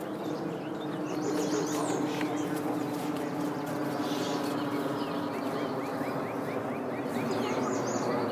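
Several small birds chirping and singing over steady outdoor background noise, with a quick series of short falling notes near the end.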